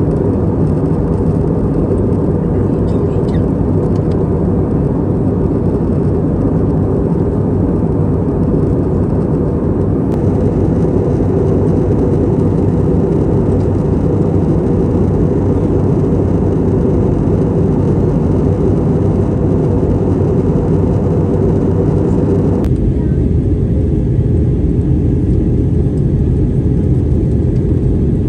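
Steady airliner cabin noise aboard an Airbus A320: a loud, even low hum from the engines and airflow. The character of the hum shifts abruptly twice.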